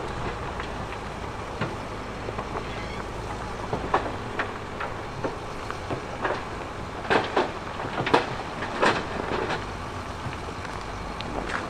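Heavy earthmoving machinery running with a steady low rumble while rocks clatter and knock, with a burst of loud knocks in the second half.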